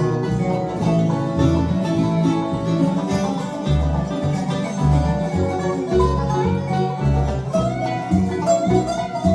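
Bluegrass band playing an instrumental break: picked banjo and guitar over a steady bass pulse, with a bowed string instrument.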